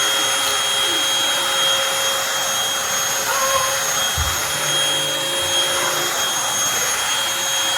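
Eureka NES212C corded stick vacuum cleaner running steadily, a dense rush of air with a high motor whine. There is a dull low bump about four seconds in.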